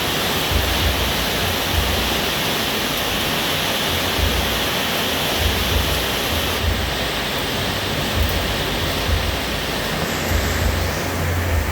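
Steady heavy rain falling, a dense even hiss, with low rumbles coming and going underneath. The highest part of the hiss thins a little about two-thirds of the way through.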